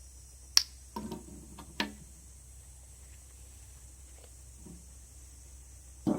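A sharp click, then two knocks about a second apart with a short low ring, and another knock at the end, as of things being handled and set down.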